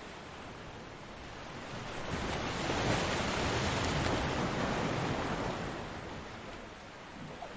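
Ocean surf: a wave breaks and washes up the beach, the rush of water swelling about two seconds in and easing off over the next few seconds.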